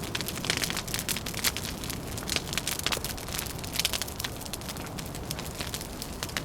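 Wood fire crackling, with dense irregular snaps and pops over a steady low rumble.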